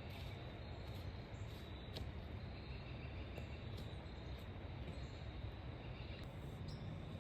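Steady outdoor background noise, mostly a low rush, with a faint high steady tone and a few small clicks.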